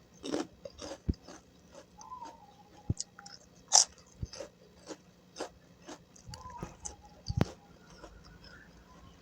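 Close-miked chewing of crisp food in the mouth: a run of sharp, irregular crunches, the loudest about four seconds in and again about seven seconds in.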